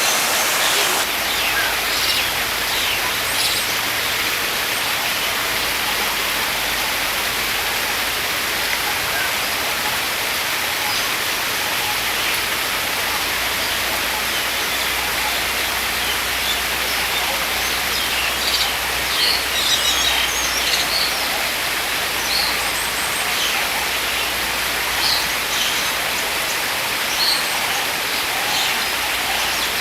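A steady rushing hiss with short, high bird chirps scattered through it, most of them bunched together about two-thirds of the way in.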